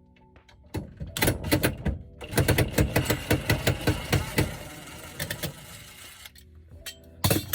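A rapid run of sharp knocks and clatter, several a second, lasting a few seconds, then a single loud knock near the end, over faint background music.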